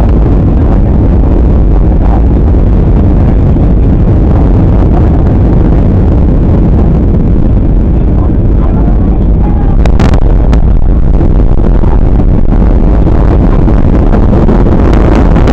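Steady rumble of jet engines and airflow heard inside an airliner cabin, with one faint click about ten seconds in.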